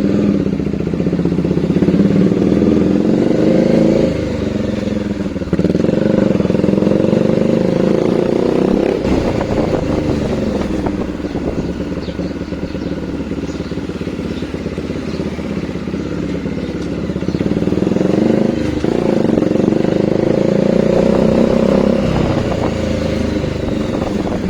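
Bajaj Dominar 400's single-cylinder engine through a newly fitted aftermarket exhaust, ridden under throttle. The exhaust note climbs and drops several times as it accelerates and changes gear.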